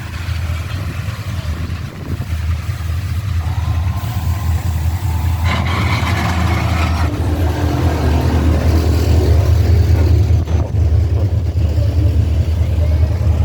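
Low, steady rumble of a car engine close by, growing gradually louder.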